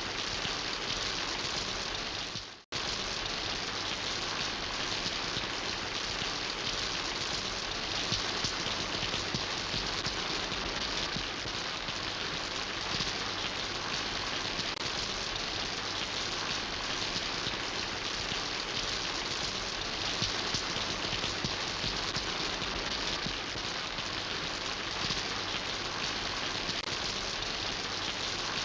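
Steady rain falling, an even dense hiss of drops. About two and a half seconds in it fades out to almost nothing for a split second and comes straight back.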